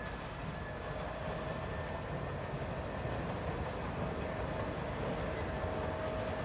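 TTC subway train running on its rails: a steady low rumble with a faint steady whine, and a couple of brief high-pitched squeals from the wheels.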